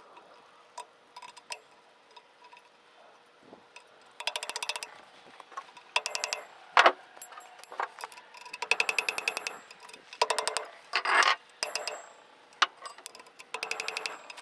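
Bursts of rapid metallic clicking, like a socket ratchet being worked back and forth, during work pressing out the caps of a truck driveshaft U-joint. A few single sharper knocks of metal on metal fall between the bursts.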